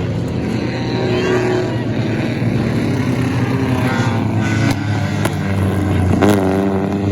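Stock car engines running steadily on the track, with a sharp swoop in one engine's pitch about six seconds in.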